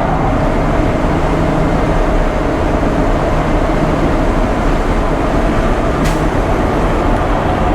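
Inside the cab of a fully loaded ready-mix concrete mixer truck driving on the road: a steady diesel engine drone with road noise. There is a brief click about six seconds in.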